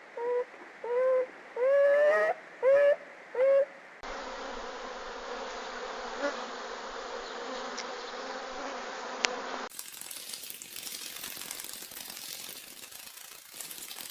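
A run of about seven short pitched animal calls, each bending in pitch. About four seconds in they give way to a steady buzzing hiss. Near the end that changes to an irregular rustling noise.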